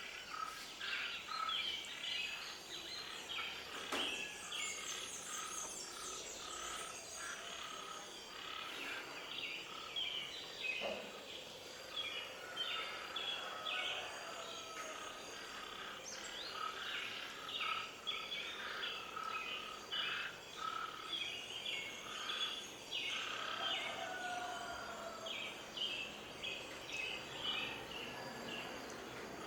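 A dense chorus of many birds chirping and calling together, with short overlapping chirps continuing throughout.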